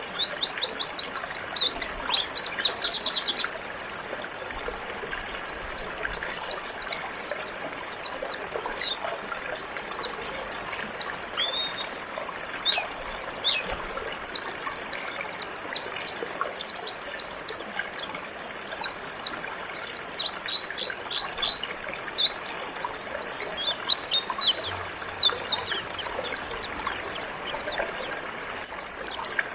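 White-eyes (pleci) chirping continuously in quick, high, falling notes over the steady rush of flowing river water.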